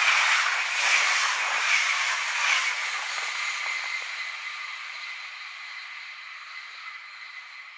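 SBB electric express train running past at speed and pulling away. The rolling of its wheels on the rails beats roughly once a second for the first few seconds, then it fades steadily to a thin rail hiss as the train recedes.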